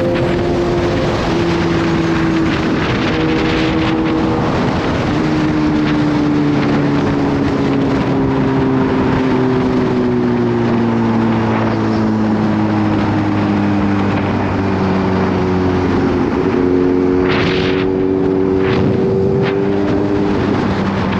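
Kawasaki Z H2's supercharged inline-four engine running under way, with wind rushing over the microphone. The revs sink slowly through the middle and climb again in steps near the end.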